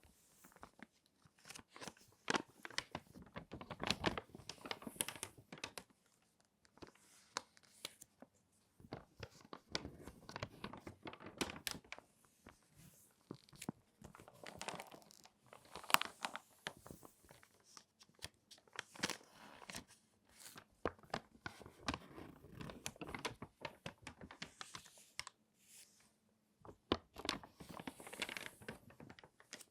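Glossy magazine pages being folded and creased, giving irregular crinkles and sharp crackles with short pauses between folds.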